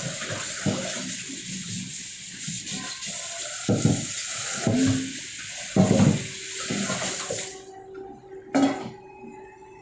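Water running from a kitchen tap into a sink, with dishes or pots knocking a few times; the water is shut off suddenly about three-quarters of the way through, and one more knock follows.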